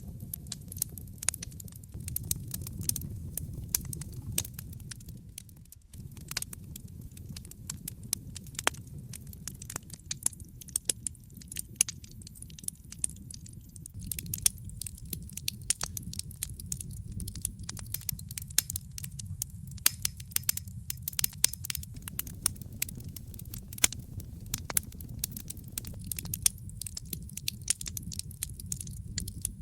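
Wood fire in a fireplace crackling, with frequent sharp pops over a low steady rumble of flame; the rumble drops away briefly about six seconds in.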